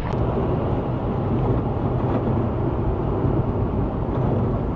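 A car's engine and road noise: a steady low rumble with no change.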